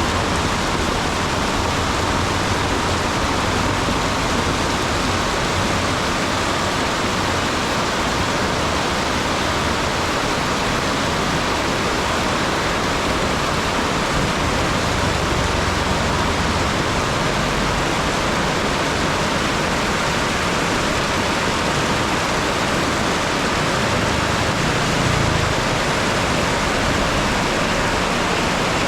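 Heavy rain falling in a steady, dense downpour, with a few brief low rumbles swelling under it.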